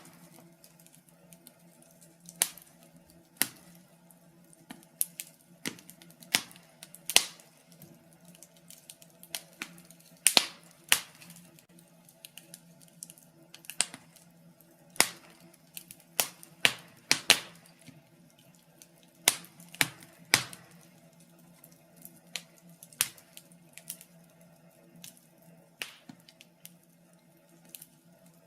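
Wood fire in a fireplace crackling, with irregular sharp pops, a few of them much louder than the rest, over a faint steady hum.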